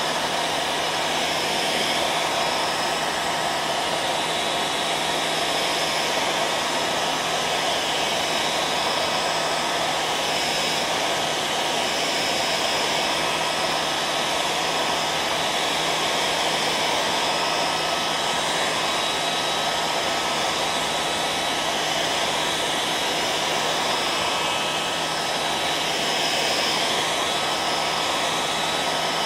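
Hair dryer running steadily: an even rush of blown air with a faint steady whine, unchanging throughout.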